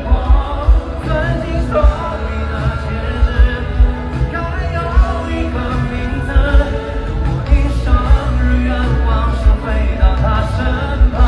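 Live pop concert music, amplified band with a heavy kick drum under a sung melody line, recorded loud from the audience.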